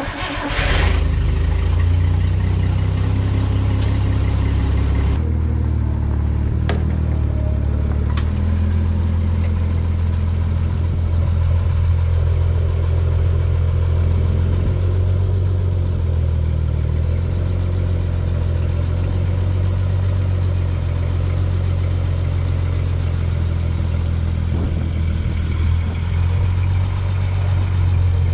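A vehicle engine starts and then runs steadily, its pitch stepping slightly a few seconds in. There are a couple of sharp clicks.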